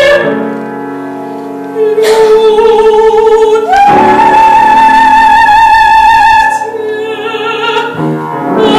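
A singer performing a Russian romance in a classical, operatic manner with piano accompaniment. After a short quieter piano passage, the voice enters with vibrato, slides up into a long high held note, then sings on.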